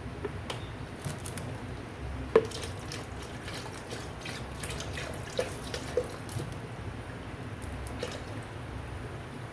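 Scattered light clicks and knocks of kitchen work, with one sharper knock about two seconds in, over a low steady background hum.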